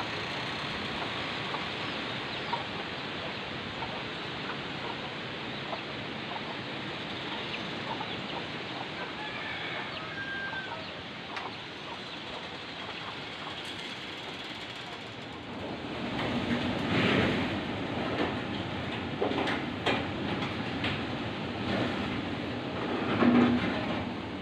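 Strong wind blowing steadily. In the last several seconds it is overlaid by a run of louder, short animal calls, like fowl clucking.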